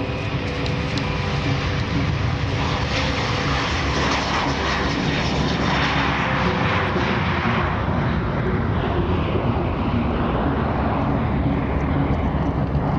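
Jet noise from a P-8A Poseidon's twin turbofan engines, swelling a few seconds in and easing off again, as in a pass overhead.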